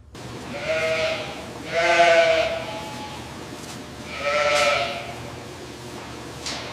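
Goats bleating: three bleats, each under a second, two close together near the start and a third about four seconds in.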